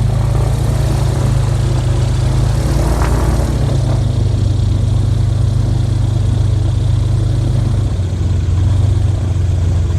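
Motorboat engine running steadily, a loud, even low drone.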